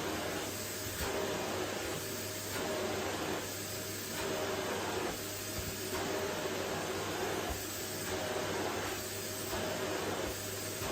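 Vacuum cleaner running with a steady motor whine. Its noise swells and dips about every second and a half as it is pushed back and forth over a wooden floor.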